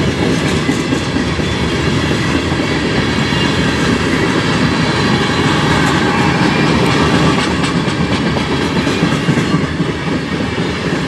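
CN freight train rolling past, its wheels running on the rails in a steady, loud rumble.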